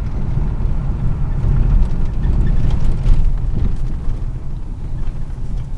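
Steady low rumble of a 1997 Ford F-150's 4.6-litre V8 and road noise, heard from inside the cab while the truck is driven.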